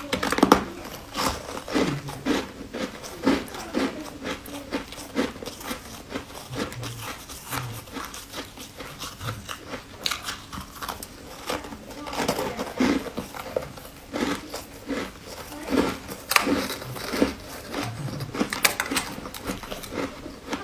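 Close-up eating sounds: irregular crisp crunching and chewing as round white sweets are bitten and chewed, in clustered runs of clicks.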